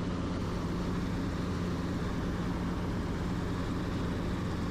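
Helicopter in cruise flight: steady engine and rotor noise with a constant low hum.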